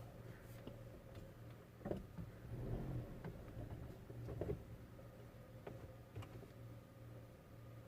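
Faint scattered clicks and knocks over a steady low hum.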